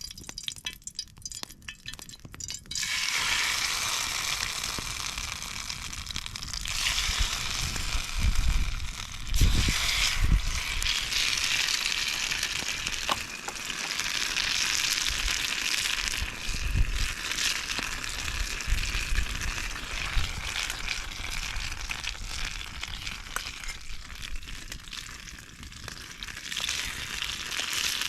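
Food frying in a hot pan: after a few seconds of light crackling, a steady sizzle sets in and keeps going. There are a few low thumps along the way.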